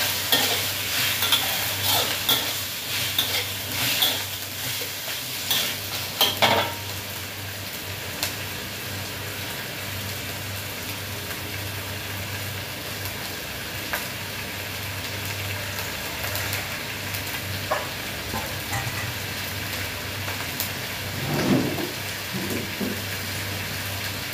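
Chicken pieces sizzling in a wok over a gas flame, with a metal spatula scraping and clacking against the wok as the meat is stirred for the first six or seven seconds. After that the stirring stops and only a steady frying sizzle is left.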